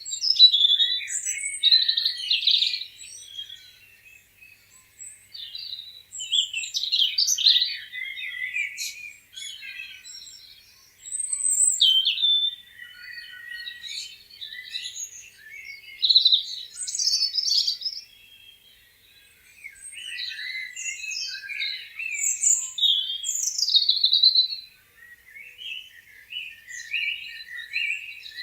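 Several songbirds chirping and singing, quick varied high-pitched phrases coming in bouts of a few seconds with short lulls between them.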